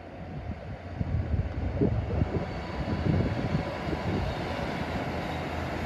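Northern multiple-unit passenger train running past along the platform, a low uneven rumble that grows louder about a second in and then holds.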